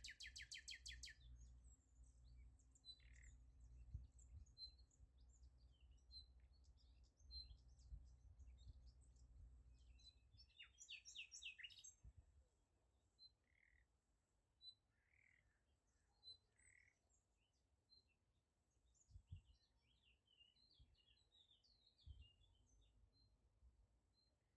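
Faint bird chirps, with a quick trill of rapid notes at the start and again about eleven seconds in, and scattered single chirps in between. A low hum underneath drops away about halfway through.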